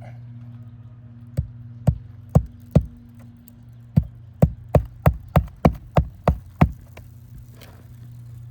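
Hammer blows in a roof-shingle repair: four strikes, a pause of about a second, then nine quicker strikes at about three a second. A steady low hum lies underneath.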